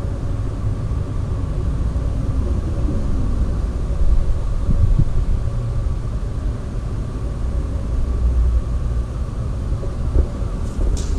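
Steady low rumble with a faint, even hum above it and a few light knocks.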